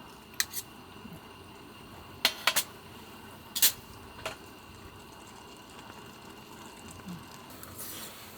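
A handful of sharp clicks and clacks of small hard objects being handled, a cluster about two and a half seconds in and the loudest about a second later, over a faint steady hiss.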